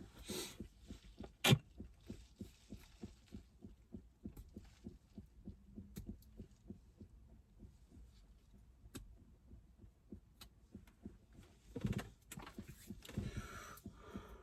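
Faint, even patter of rain on a car, with a few sharp clicks, one louder about a second and a half in, and a low breathy rush near the end.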